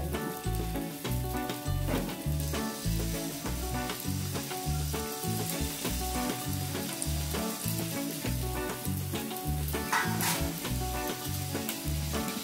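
Soya cutlets sizzling in hot oil on a tawa as they are set down one by one, over background music with a steady pulsing bass beat.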